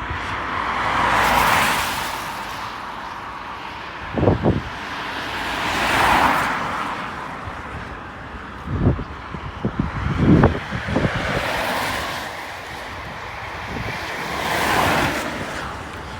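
Road traffic: three cars pass one after another, each swelling and fading over two or three seconds, with several short low thumps in between.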